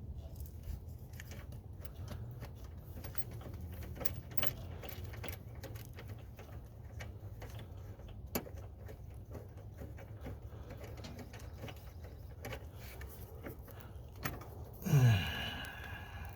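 Irregular small metallic clicks and taps of a wrench working a bolt on the tractor's pedal linkage, over a low steady hum. Near the end comes a short, louder sound that falls in pitch.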